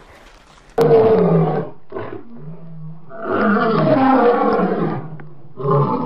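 Lion roaring in a series of deep calls: a sudden loud call about a second in, shorter calls after it, a long loud roar in the middle and one more near the end.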